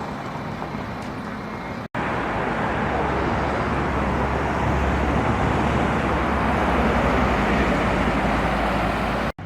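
Steady road-traffic noise with a low engine drone that grows heavier from about a second after the first break. The sound drops out abruptly twice, about two seconds in and near the end.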